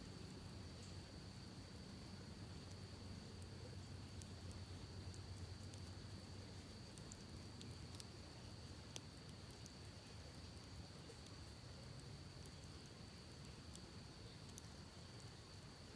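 Faint campfire crackling, with sparse sharp pops, the strongest about halfway through, over a low steady rush from the creek and a steady high-pitched insect drone.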